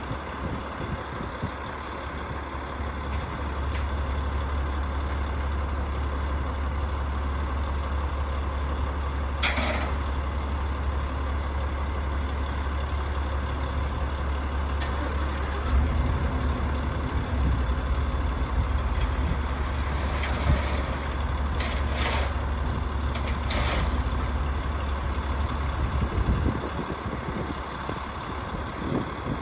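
Rooftop HVAC unit running with a steady low hum, with a few brief knocks or scrapes about ten seconds in and again a little past the middle.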